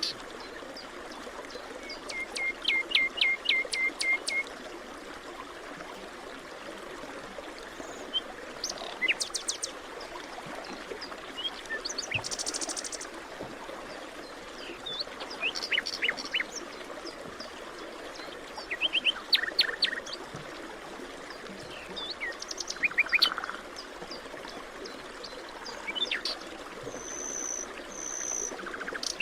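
Several songbirds singing in a forest, short bursts of chirps and rapid trills every few seconds, over a steady soft rushing background.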